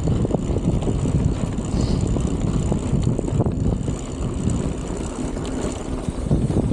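Strong wind buffeting the microphone, a dense, uneven low rumble.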